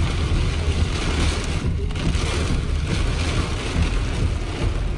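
Heavy rain falling on a car's roof and windshield, heard from inside the moving car as a steady hiss over the low rumble of the car on the wet road.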